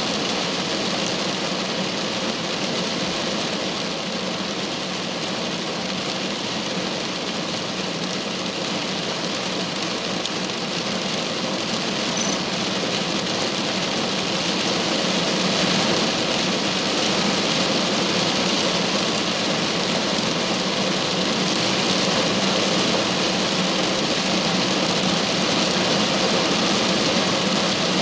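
Steady rain falling, growing a little louder about halfway through.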